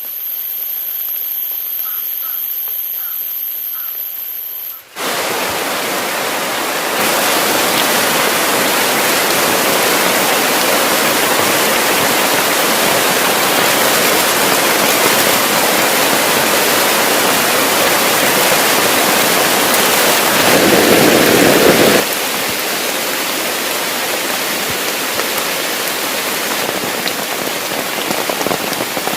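Heavy rain falling in a dense, steady hiss, coming in suddenly about five seconds in. Before it there is a quieter stretch with a steady high-pitched whine.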